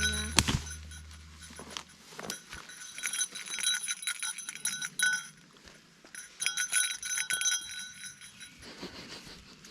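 A bear bell jingling in two spells of shaking, its clapper striking many times and ringing a few steady high tones, after a music track fades out at the start.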